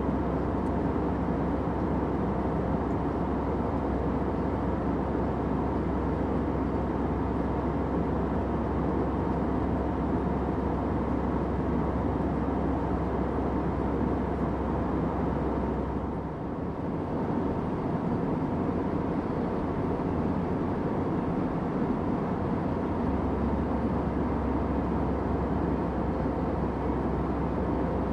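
Steady airplane cabin noise: a broad, even rushing drone with a faint steady hum in it. About sixteen seconds in it dips briefly, and the deepest rumble thins for several seconds before returning.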